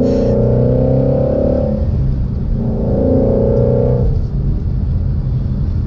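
2016 Ford Shelby GT350's 5.2-litre flat-plane-crank V8 accelerating in third gear, its note rising until about two seconds in. It then eases off, pulls again briefly, and settles to a lower steady drone after about four seconds.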